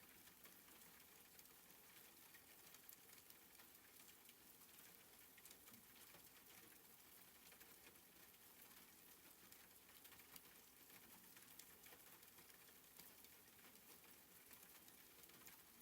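Very faint, soft rain: a steady hiss with a light, irregular patter of drops.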